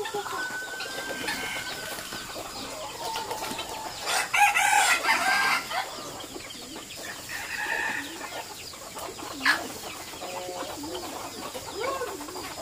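Poultry calling: many short, overlapping clucking calls, with a louder, longer call about four seconds in and a sharp single call near the end.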